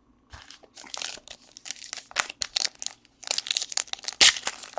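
Crinkling of plastic trading-card packaging as baseball cards are unwrapped and handled, heard as many short irregular crackles that get thicker about three seconds in.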